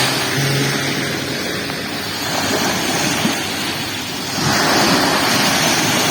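Sea waves washing onto a beach, with one surge building about two seconds in and a louder one about four and a half seconds in.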